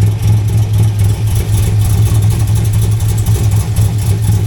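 Chevrolet LS3 6.2-litre V8 idling, heard low down near the exhaust, with a steady fine knocking through the rumble that the owner takes for an exhaust leak further down the system.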